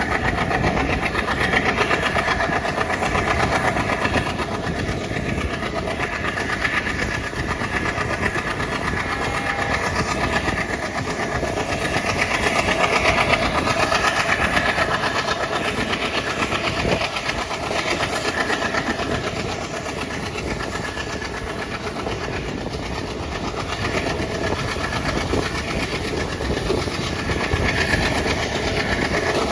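Alco WDG-3A diesel-electric locomotive's V16 ALCO 251 engine running steadily at work, with train wheels clattering on the rails.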